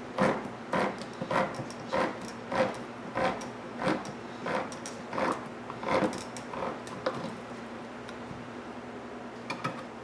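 Manual can opener cranked around the rim of a juice can, making a regular clicking stroke a bit under twice a second. The cranking stops about seven seconds in, with a couple of light clicks near the end.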